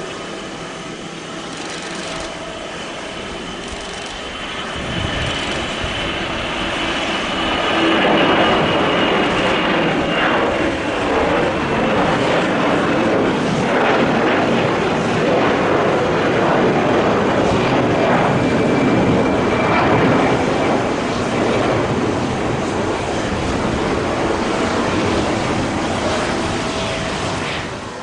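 Airbus A321-211 with its twin CFM56 turbofans going past on the runway. The jet roar swells a few seconds in, a high engine whine slowly falls in pitch, and the roar stays loud before dropping off near the end.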